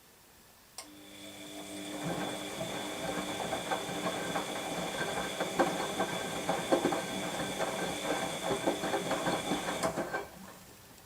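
Washing machine drum turning in a wash phase. A click and a motor hum start it, then the load tumbles with a dense, irregular clatter for about eight seconds before the drum stops just after ten seconds in.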